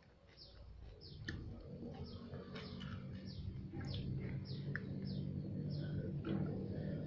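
A small bird chirping over and over, about two short falling chirps a second, while a low hum grows steadily louder underneath.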